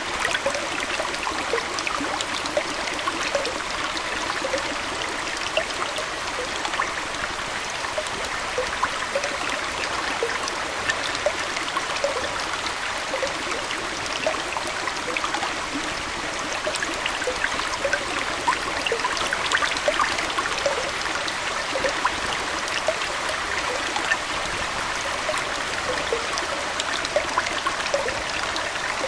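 Aquarium water flowing and trickling steadily: a constant even rush sprinkled with many small, quick droplet splashes.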